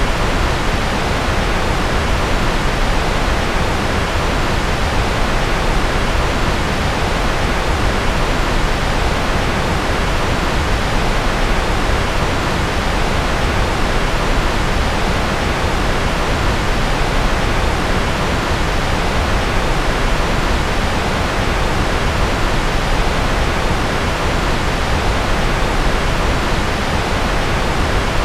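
Steady synthetic white noise: an even, unchanging hiss with no rhythm or events, its energy fuller in the low and middle range and thinning toward the top.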